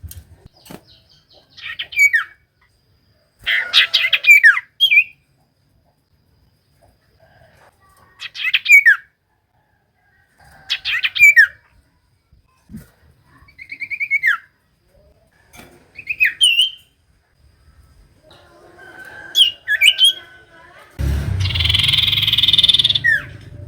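Common iora (cipoh) calling: short phrases of rapid notes, each ending in a falling whistle, repeated every two to three seconds. Near the end, a couple of seconds of hissing noise with a low rumble.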